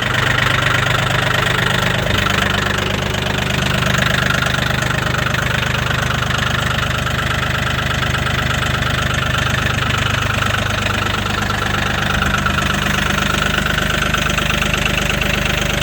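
Mahindra 1635 tractor's three-cylinder diesel engine idling steadily just after a cold start in −22 °C, running a little rough while still cold.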